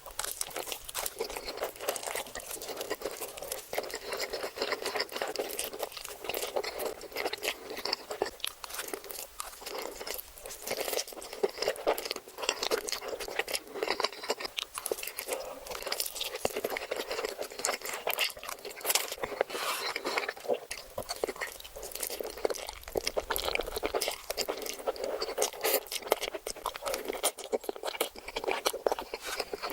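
Close-miked eating sounds: continuous crunching and chewing, a dense run of sharp wet clicks throughout.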